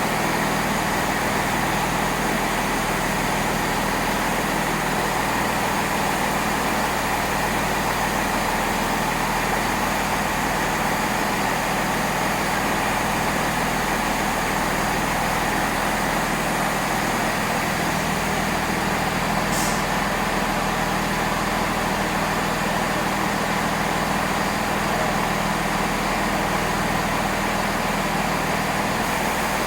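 Great Western Railway diesel multiple unit idling at a station platform: a steady engine hum. A short high hiss, like an air release, comes about twenty seconds in.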